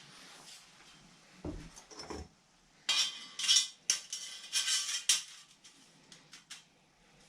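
Metal pieces being handled: two dull knocks, then a run of sharp clinks and rattles, then a few light ticks, as of metal profiles or bar stock being moved and set down.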